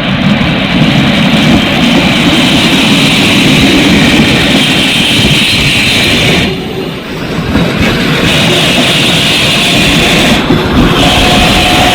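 Metre-gauge electric train pulling out of the station, a loud, steady rumble and rush of the moving train with a short dip about six and a half seconds in.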